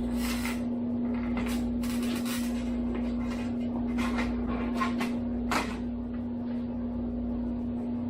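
A steady hum under a scattering of short clatters and scrapes, about half a dozen in the first six seconds.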